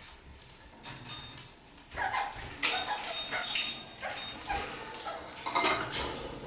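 Red-crowned kakariki (parakeets) chattering: clusters of short, sharp calls with quieter gaps between.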